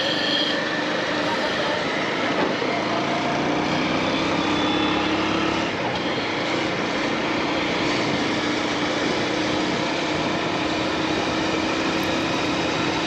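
Motorcycle engine running steadily under way, mixed with wind and road noise.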